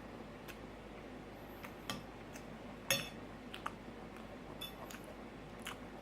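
Scattered light clicks and clinks of cutlery against a plate as someone eats, about half a dozen, the sharpest about three seconds in.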